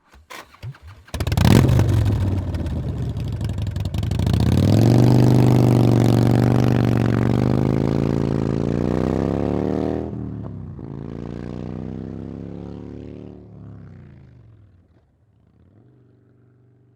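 Motorcycle engine: a few light clicks, then it bursts into life about a second in. It revs up and holds a high, slightly wavering pitch. About ten seconds in it drops off, falls in pitch and fades to a faint steady note.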